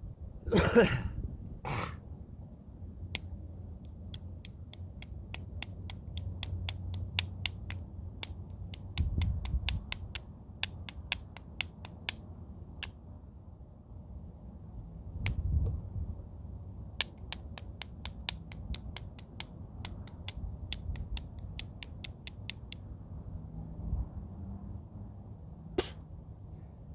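Flintknapping: a homemade bopper striking stone twice, hard, near the start, then a long series of light, sharp ticks, several a second, as the edge of the stone is worked. Another strike comes about halfway through and one more near the end.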